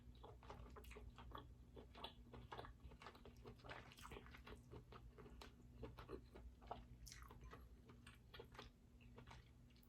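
Quiet close-up chewing and biting of king crab meat, with a steady stream of small, soft mouth clicks.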